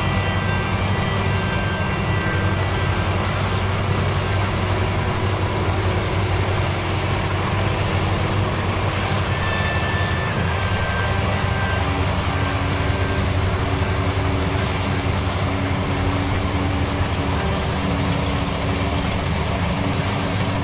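Rice combine harvester running steadily: a constant engine drone with a strong low hum and a wide hiss, and faint steady whines riding over it.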